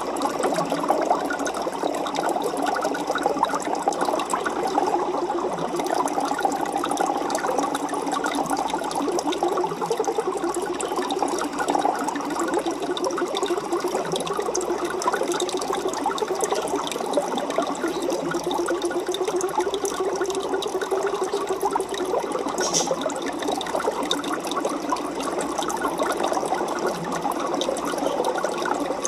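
Aquarium water trickling and bubbling steadily, a dense fizzing patter of tiny pops that never lets up.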